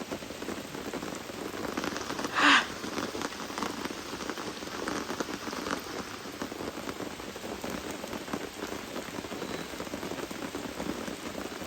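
Steady rain falling, with many separate drops ticking on nearby surfaces, and one short, louder burst of noise about two and a half seconds in.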